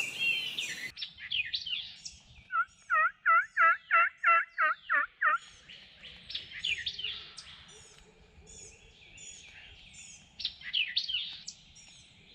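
A run of about nine loud turkey yelps, roughly three a second, from about two and a half seconds in, over scattered songbird chirping.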